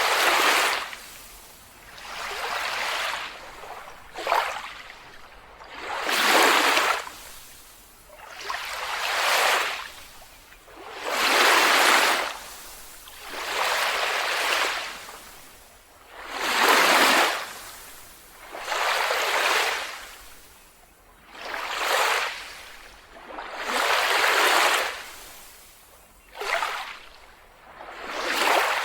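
Small waves breaking and washing up a beach, a rushing swell that rises and falls every two to three seconds.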